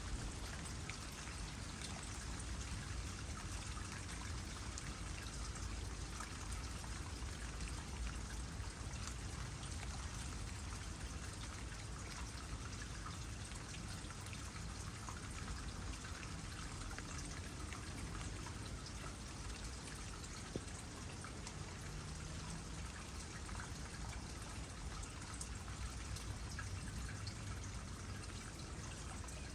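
Water trickling steadily into a small pond, with light rain falling as many small drops on the water.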